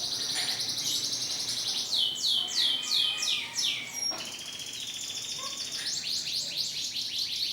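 Domestic canaries singing: a dense run of high trills and chirps, with a series of quick falling sweeps about two seconds in.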